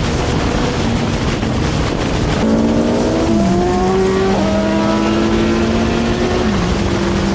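Motorcycle on the move at highway speed under a heavy rush of wind and road noise. About two and a half seconds in, an engine note comes through and climbs slowly, dropping in pitch twice as the rider shifts up while accelerating.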